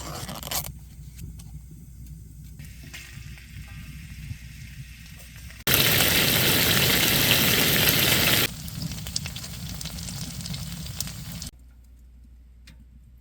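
Food sizzling in a hot pan, a steady hiss that gets much louder for about three seconds in the middle and then fades to a low hum near the end.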